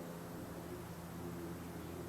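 Faint steady background hum and hiss, with no distinct events.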